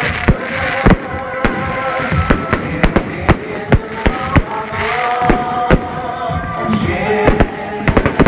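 Aerial fireworks display: a dozen or so sharp bangs of bursting shells at irregular intervals.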